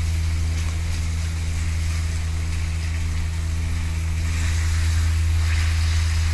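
Beef and garlic sizzling in an aluminium wok, over a loud, steady low hum.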